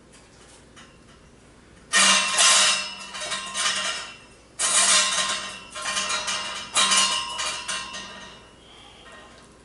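Three bursts of metallic clattering and scraping, each about two seconds long, the first starting about two seconds in.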